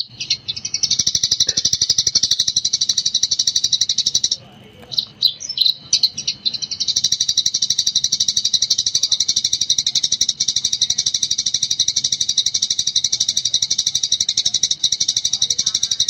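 Eurasian tree sparrow chirping in a rapid, unbroken 'gecor' chatter of high, evenly repeated notes. About four seconds in the run breaks off for a couple of seconds into a few separate calls, then resumes.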